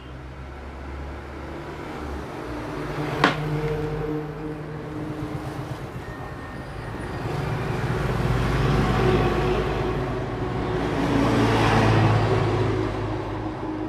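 Passing motor traffic: a low engine hum that swells and fades twice, with a single sharp click about three seconds in.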